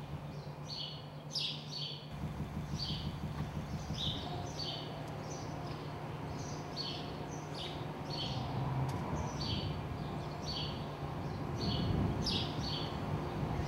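A bird chirping over and over, each chirp a short note falling in pitch, about one or two a second, over a steady low hum.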